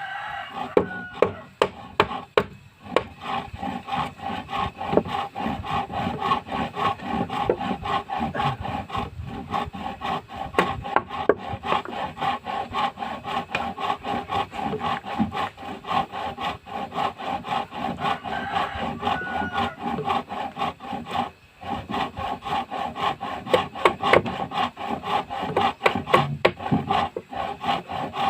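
A tool rasping and rubbing on wood in rapid, repeated strokes as boat timber is shaped, with a steady tone running underneath.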